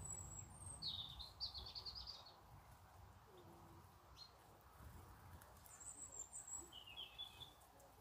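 Faint bird calls: short high chirps followed by quick twittering phrases, in two bouts, one during the first two seconds and another from about six seconds in, over a low rumble.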